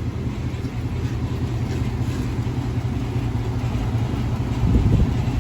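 Chevy Tahoe engine idling with a little rattle and whirring from the motor that the owner was told he shouldn't be hearing. It swells briefly near the end.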